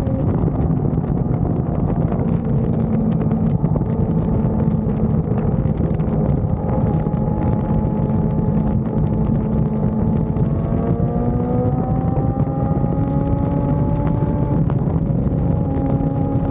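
Yamaha R6's inline-four engine running at steady road speed under heavy wind noise on the microphone. The engine note rises slowly about ten seconds in and drops back near the end.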